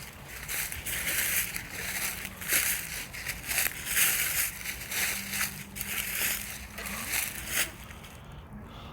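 Footsteps crunching through dry leaf litter and brush, about two steps a second, stopping near the end.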